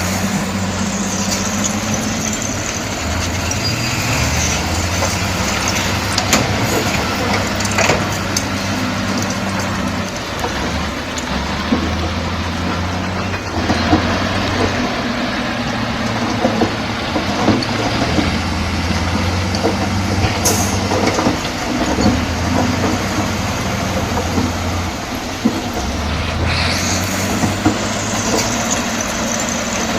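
Heavy diesel earthmoving machinery running under changing load: the engine note shifts up and down every few seconds, with occasional sharp metallic knocks.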